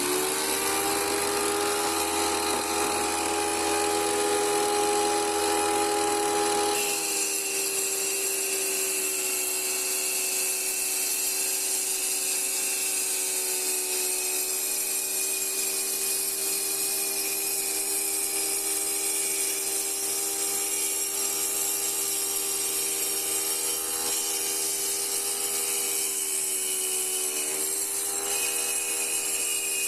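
Electric wet tile cutter running steadily, its water-cooled blade grinding through a glass bottle. The steady motor hum shifts to a harsher grinding about seven seconds in.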